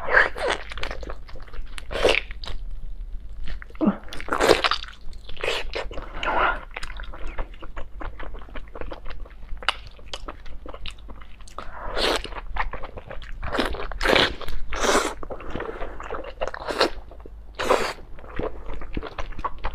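Biting and chewing of octopus and squid cooked in sauce, with louder bites at uneven intervals among the steady chewing.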